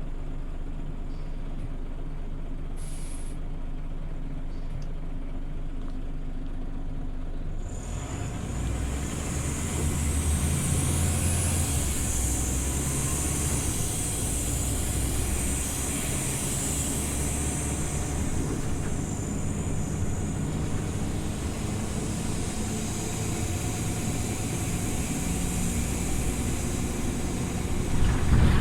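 Scania OmniLink city bus heard from on board, its engine idling steadily. About eight seconds in a hiss comes in and the engine pulls away, running under load for the rest. There is a short knock near the end.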